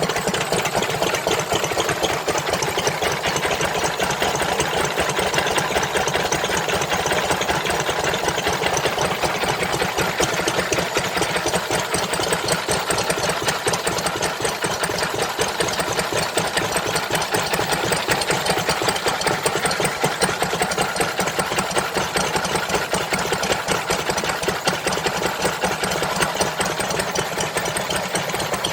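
Engine running steadily at an even speed with a fast, regular clatter.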